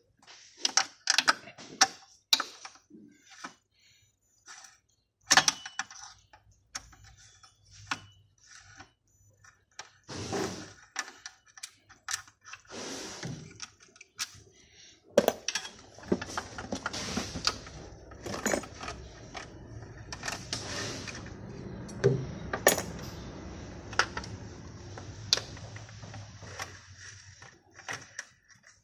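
Hand tools and metal parts clicking and clanking irregularly while the fuel injector rail is unbolted on a BMW M54 engine. A steadier low noise runs under the clicks in the second half.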